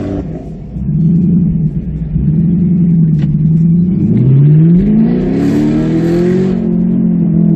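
Chevrolet Camaro SS V8 with an aftermarket MBRP exhaust, heard from inside the cabin, running at low revs as it pulls away. About four seconds in it revs up in one rising pull, then settles back to a steady tone.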